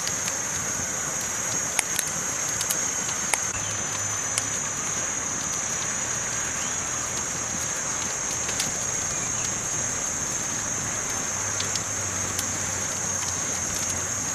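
Campfire burning with a steady hiss and a handful of sharp crackling pops scattered through.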